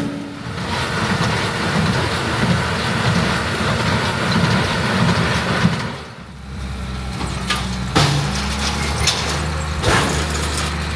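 Diesel engines of heavy farm machinery running. The sound changes abruptly about six seconds in to a different machine with a steadier low hum, and a few sharp knocks follow.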